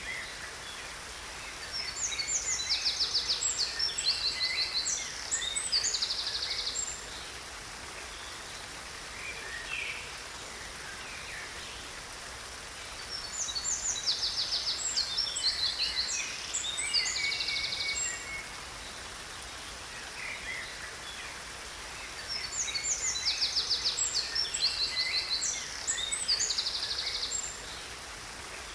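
Songbird singing the same song three times, each a burst of about five seconds of fast trills and chirps, over the steady rush of a waterfall.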